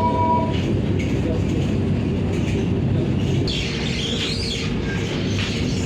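Steady rumble of a Vande Bharat electric train running on the rails, heard from inside the coach.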